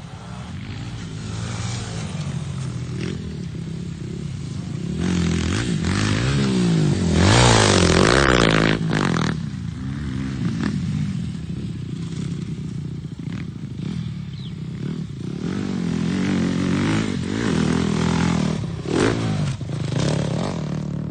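Dirt bike engines revving up and down on a motocross track, the pitch rising and falling again and again, loudest about seven to nine seconds in.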